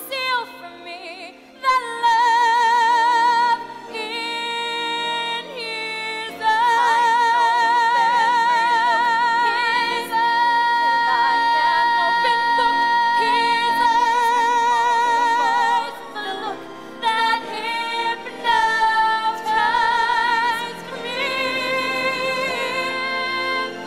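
Female voices singing a slow show-tune ballad with accompaniment. The long notes are held with wide vibrato, and the phrases are separated by brief breaths.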